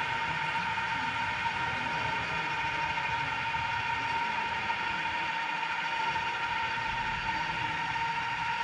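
Coaxial counter-rotating rotors of an Ingenuity-type Mars helicopter demonstrator in flight, giving a steady high whirring hum that holds one pitch.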